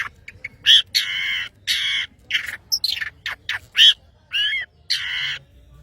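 Long-tailed shrike (cendet) calling actively: a rapid series of harsh, rasping notes, some short and some held for about half a second, mixed with a few clearer, bending whistled notes.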